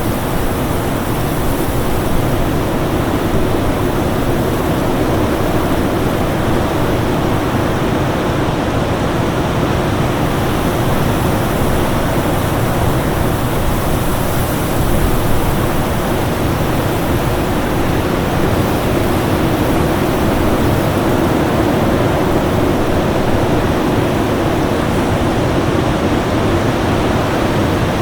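Winter storm ambience: a steady, even rushing noise, heaviest in the low and middle range, with no distinct gusts or separate events.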